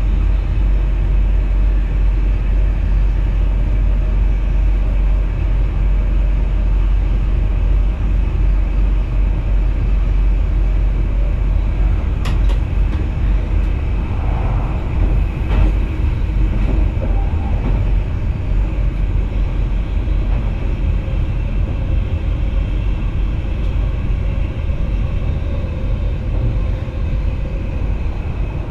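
Inside the driver's cab of an NS VIRM double-deck electric multiple unit running along the line: a steady, loud rumble of wheels on track, with two brief clicks near the middle.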